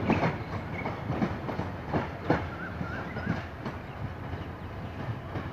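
Passenger train clacking over rail joints and points as it pulls away, with irregular wheel clicks over a low rumble that slowly fade.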